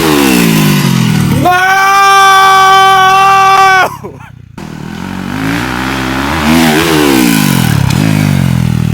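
Dirt bike engine revving and passing, its pitch rising and then falling. About a second and a half in, a long shouted "Nooo!" covers it for a couple of seconds. Near the middle the sound drops out briefly, then the bike revs and passes again, its pitch climbing and falling away.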